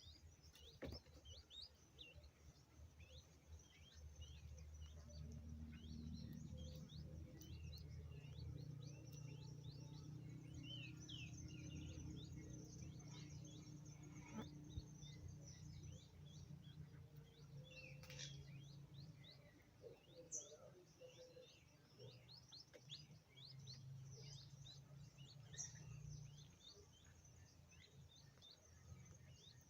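Faint background birdsong: many short, high chirps dropping in pitch, scattered throughout, over a low steady hum.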